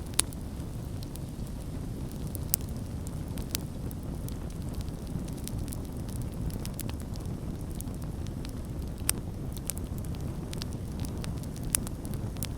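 Campfire burning: a steady low rumble of flames with scattered sharp crackles and pops, a few louder pops standing out.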